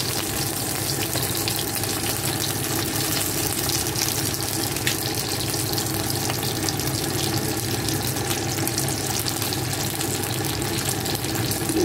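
Pork-stuffed green pepper pieces frying in oil in a pan: a steady sizzle with constant fine crackling and spitting, over a steady low hum.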